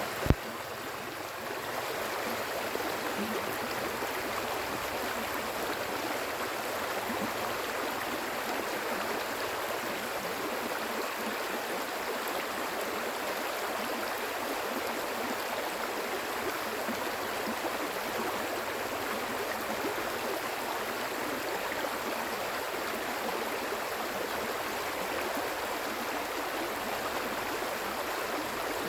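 Flowing water running steadily, the even rush of a stream, after a single sharp click right at the start.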